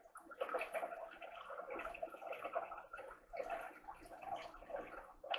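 Close-up chewing of a crispy fried mini taco filled with cheese: a run of small irregular crackles and wet mouth sounds, with brief pauses.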